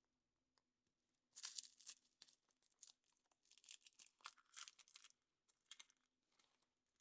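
Foil wrapper being torn and peeled off a chocolate surprise egg: irregular crinkling and tearing that starts about a second in.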